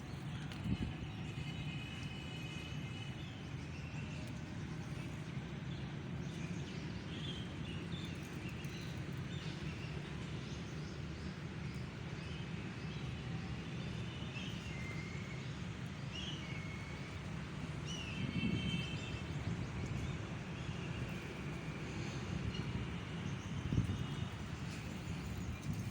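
Birds chirping and calling in short bursts now and then, over a steady low rumble.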